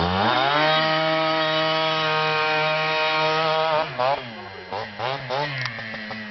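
Small motorcycle engine revved up and held steady at high revs for about three and a half seconds, then let drop, followed by a few short throttle blips.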